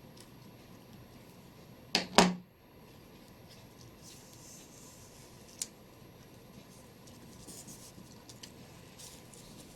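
Craft materials being handled on a tabletop: two quick sharp knocks about two seconds in, then faint paper rustling and a single small click.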